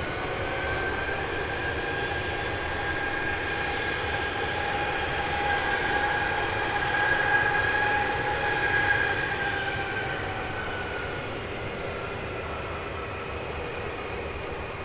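Jet airliner engines whining with a steady high tone over a rumble, growing louder to a peak about seven to nine seconds in, then fading away as the aircraft moves off.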